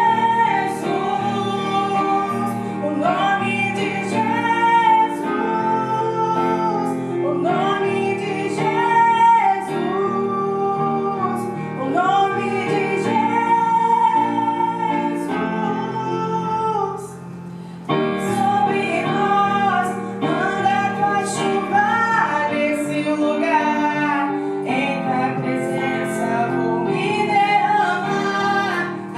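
A woman singing a slow song with piano accompaniment, the music dipping briefly a little over halfway through.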